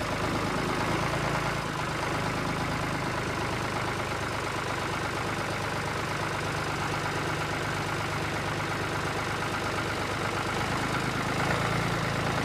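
Small engine running steadily at an even speed, driving a homemade mini flour mill, with a constant low hum and a dense mechanical hiss over it.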